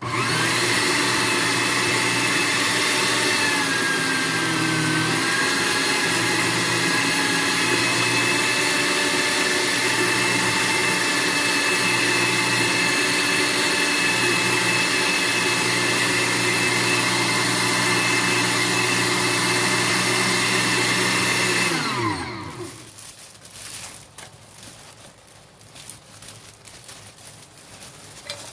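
Electric meat grinder motor running steadily, with bread buns being fed through to push out the leftover meat; its pitch dips briefly a few seconds in. About 22 seconds in it is switched off and winds down, followed by faint handling clatter.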